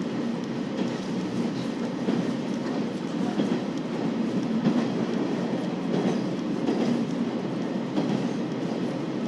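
KiHa 40 series diesel railcar running along the line, heard from on board: a steady rumble of wheels and running gear on the rails, with faint clicks from the track.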